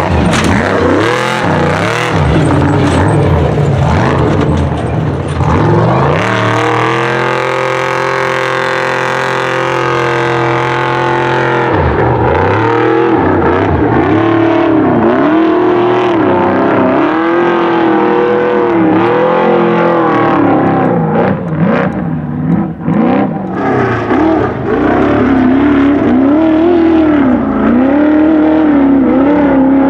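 Trophy truck engine racing at high revs, held steady for a few seconds, then rising and falling about once a second as the throttle is worked over rough ground.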